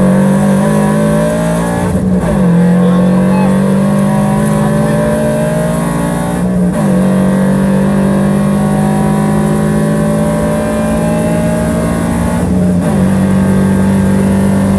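2022 Toyota GR86's 2.4-litre flat-four engine pulling hard under acceleration, heard from inside the cabin. Its pitch climbs steadily and drops sharply at three upshifts, about two, six and a half and twelve and a half seconds in.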